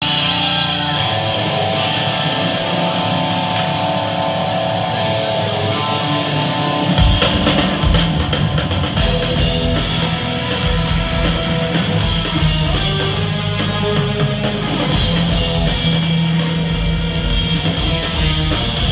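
Progressive metal band playing live. At first there is no bass, with guitar to the fore; about seven seconds in, the drums and bass come in and the full band plays.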